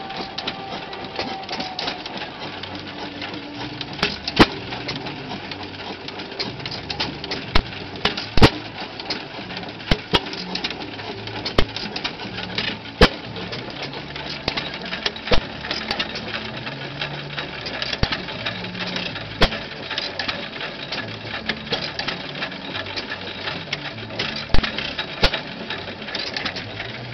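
Antique machinery running with a continuous mechanical clatter and sharp knocks at irregular intervals.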